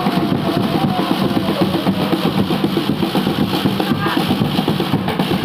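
Football supporters' drums beating a steady, fast rhythm, with a wavering voice or chant line over them.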